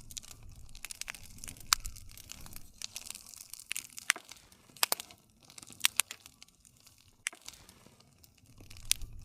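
Campfire crackling: burning wood gives scattered sharp pops at irregular moments over a soft, low rustle of the flames.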